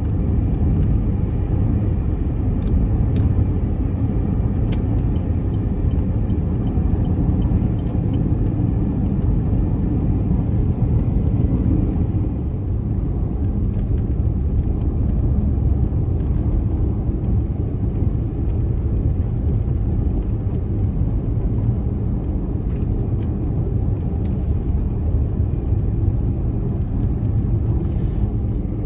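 A car driving: steady road and engine noise, a low rumble throughout.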